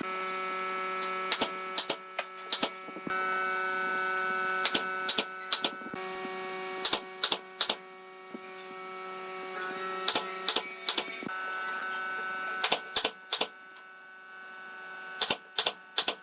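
A steady electric hum with repeated sharp clicks or knocks, often in quick pairs and threes at irregular intervals.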